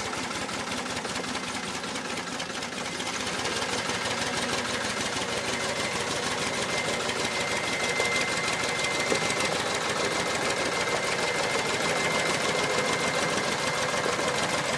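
Tractor engine running steadily with a fast, even clatter, growing somewhat louder a few seconds in. A thin, high steady whine joins about six seconds in.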